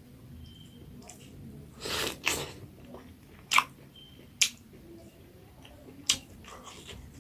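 Close-up chewing of pork curry, with a short noisy burst of eating sound about two seconds in and three sharp mouth smacks spread through the rest.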